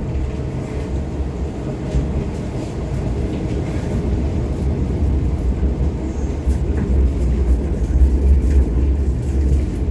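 Steady low rumble of a moving rail vehicle, heard from on board.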